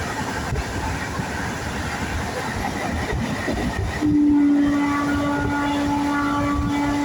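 Train running on the rails, a steady rumble of wheels and carriages. About four seconds in the sound changes abruptly and a steady held tone comes in, with a few short higher tones over it.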